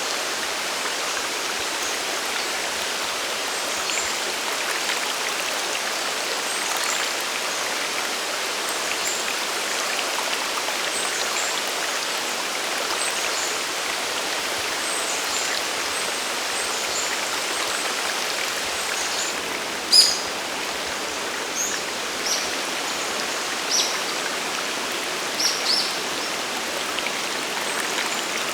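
Sagiri Falls waterfall and its stream rushing steadily. Short, high bird chirps are scattered over it, growing louder and more frequent in the last third.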